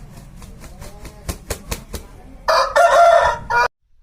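Aseel rooster crowing loudly, the crow cut off abruptly near the end. It is preceded by a quick run of sharp claps over the first two seconds.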